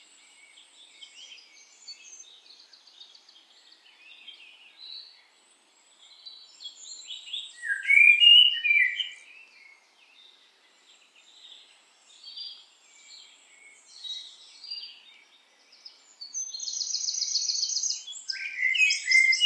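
Wild birds singing and calling: scattered chirps and short phrases, a loud burst of chirps about eight seconds in, and a fast, evenly repeated high trill near the end.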